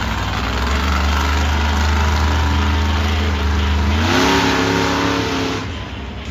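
Monster truck engine running hard at a steady high throttle, then revving up sharply about four seconds in with a rush of noise, and backing off near the end.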